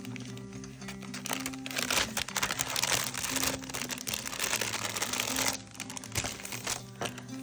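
Crinkling and rustling as a scratch-art mask is handled, heaviest for a few seconds in the middle, over soft background music with steady low notes.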